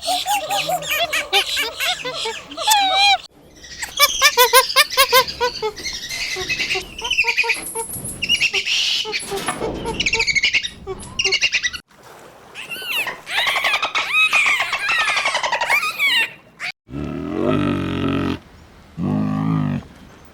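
A run of separate animal-call clips, mostly birds chirping and calling in quick, pitch-bending notes, with abrupt breaks between clips. Near the end come two lower, drawn-out calls from a larger animal.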